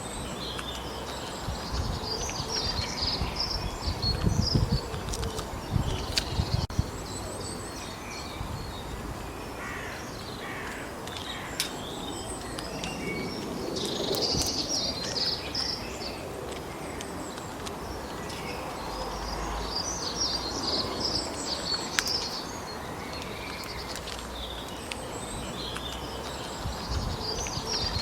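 Songbirds chirping and singing in woodland, in repeated clusters of short high notes, over a steady outdoor hiss. Low rumbles come through a few seconds in and again near the end.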